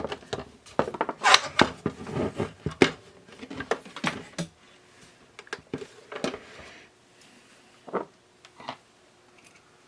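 Plastic radio-cassette player case being handled and closed up: a quick run of clicks and knocks, then a few scattered knocks.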